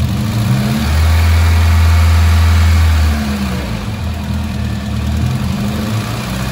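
Ford Fiesta's Zetec Rocam engine revved up from idle and held at about 2000 rpm: the revs climb at the start, hold steady for a couple of seconds, then sag and pick up again. The engine is running with low oil pressure, about 1.5 bar at 2000 rpm, and a noise that the mechanic finds not good. He puts it down to crankshaft or camshaft clearance, or a faulty oil pump.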